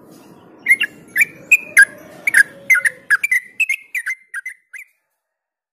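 Yellow-vented bulbul singing a quick run of short, clear whistled notes, about three a second, starting about a second in and growing fainter before it stops near the end.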